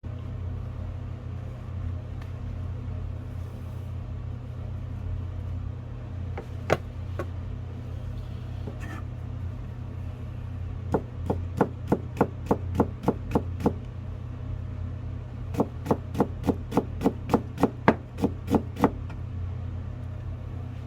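Kitchen knife chopping on a cutting board in two quick runs of strokes, about four or five a second, the second run near the end, after a single knock earlier on. A steady low hum lies underneath.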